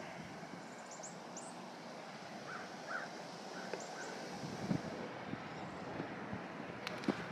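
Birds calling in snowy woodland: a few brief, high chirps and some short lower calls over a steady outdoor background hiss.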